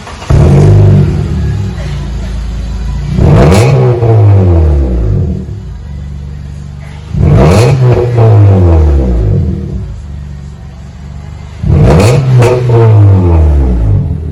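2015 Honda Accord LX's four-cylinder engine revved four times through a new axle-back split dual exhaust with single-chamber V-tube mufflers and a resonator delete. Between the throttle blips the engine idles with a low burble. Each blip rises sharply, then the pitch falls back down to idle.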